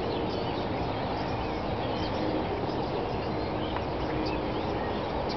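A large flock of blackbirds calling all at once: a dense, steady chatter of many overlapping short chirps and squeaks, over a steady low rumble.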